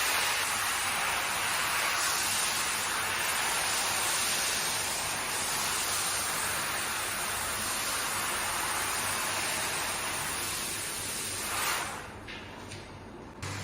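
Hand-held car wash sprayer spraying water onto the carpet: a steady hiss that cuts off about twelve seconds in.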